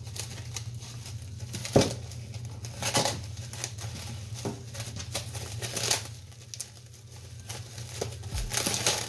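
Plastic cling film crinkling and rustling as vegetables are wrapped by hand, with light knocks and taps, over a steady low hum.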